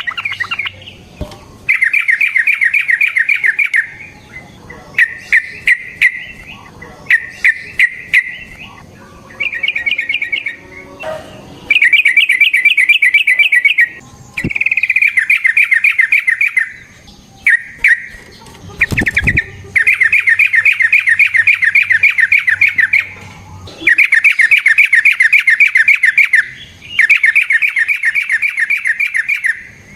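Yellow-vented bulbul (trucukan) singing in long rolling chatters: runs of rapid repeated notes, one to three seconds each, with short gaps, and a few short single calls between them about five to eight seconds in.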